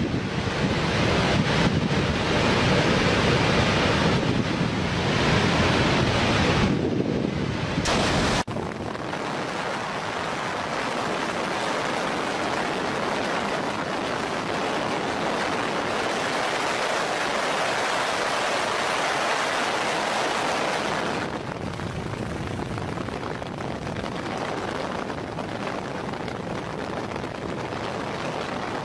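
Steady roar of large volumes of water rushing through a dam, with wind buffeting the microphone. The sound changes abruptly about eight seconds in, losing much of its deep rumble, and drops a little again a few seconds before the end.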